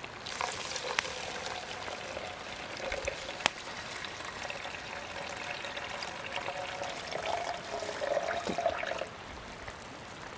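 Water being poured slowly into a pot of uncooked rice, a steady trickling splash that stops about a second before the end.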